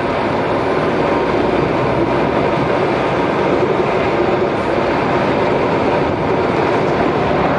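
Lorry driving on the road, heard from inside the cab: steady diesel engine and road noise.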